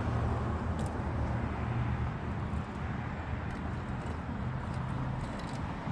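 A steady low vehicle rumble, like a motor vehicle running, with a few faint ticks.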